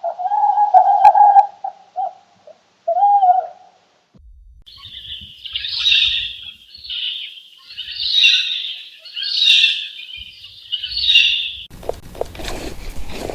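Bird calls: a low, steady cooing in pulses for the first few seconds, then five higher chirping calls about a second and a half apart. Near the end an even rushing noise takes over.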